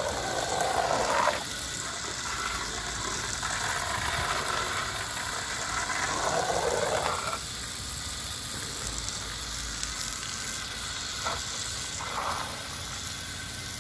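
Water spray from a hose hissing against vinyl house siding. Louder spells of spray cut off abruptly about a second in and again about seven seconds in.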